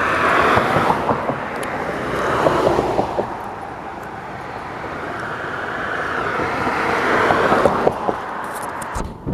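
Cars passing on a busy road, a few in a row: engine and tyre noise swelling as each one comes by and fading as it goes.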